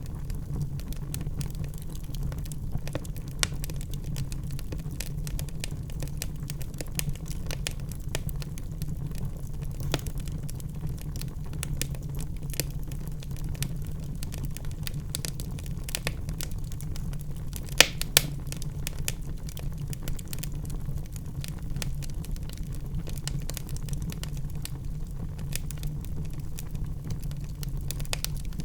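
Wood fire in a fireplace burning steadily with a low rumble and constant crackling, with two louder pops in quick succession a little past the middle.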